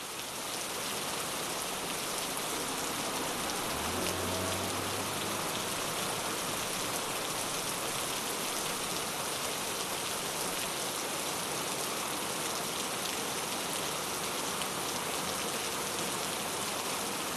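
Steady rain falling on a wet city street, an even dense hiss that fades in at the start. A faint low hum comes and goes about four seconds in.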